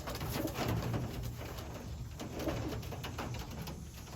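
Young racing pigeons cooing in the loft, low murmuring coos repeating, with scattered short clicks and rustles.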